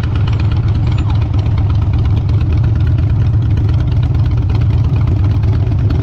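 Harley-Davidson V-twin motorcycle engine idling steadily, with an even low pulse.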